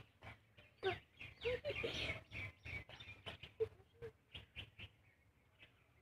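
Faint bird chirps: short, scattered calls, some gliding in pitch, among many light clicks.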